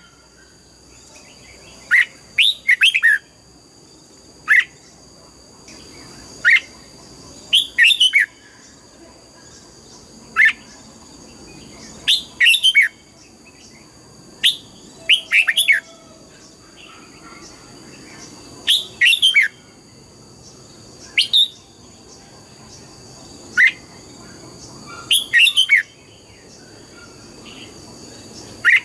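Red-whiskered bulbul singing: short bursts of quick, falling whistled notes, one phrase about every two seconds, some phrases single and some doubled. A faint, steady high-pitched tone runs underneath.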